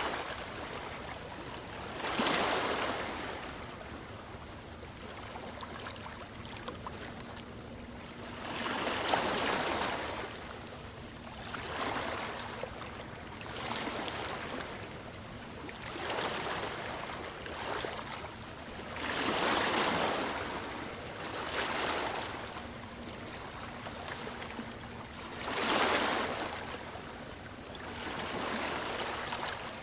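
Ocean waves breaking and washing up the shore, each wave a swelling rush of noise every few seconds, with the biggest surges about two, nine, twenty and twenty-six seconds in.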